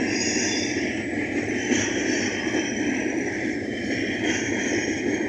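Steady rumble of train wheels running on rails as a container freight train's flatcars roll past close by.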